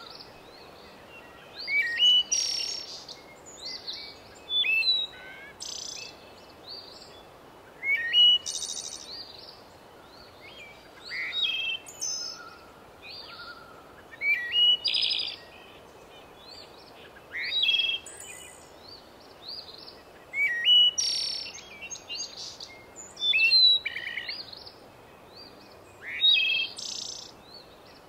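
Songbird chirping in short, quick phrases that repeat about every three seconds over a faint steady hiss.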